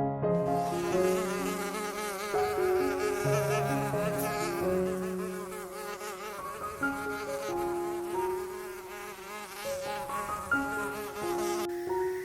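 Buzzing of a flying insect, its pitch wavering up and down, starting just after the start and cutting off sharply near the end, over background music of steady piano-like notes.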